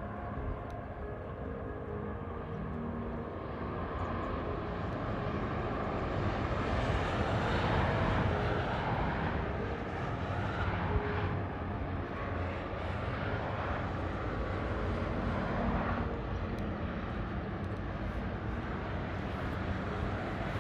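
Engine noise: a steady low rumble that swells louder around the middle and eases off again.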